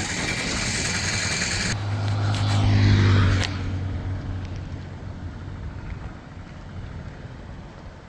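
A motor vehicle passing close by: its engine hum grows to its loudest about three seconds in, then fades away as it moves off.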